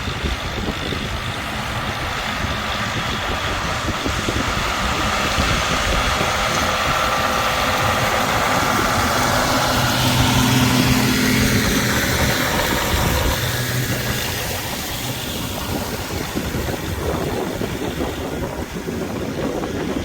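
Tractor engine running, growing louder to a peak about halfway through and then fading again.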